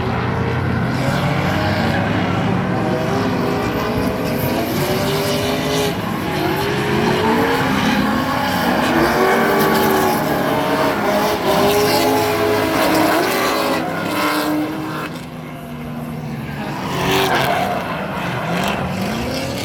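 Drift cars' engines revving up and down, more than one at once, with tyres squealing as the cars slide. The engines die down briefly about three-quarters of the way through, then one revs up again.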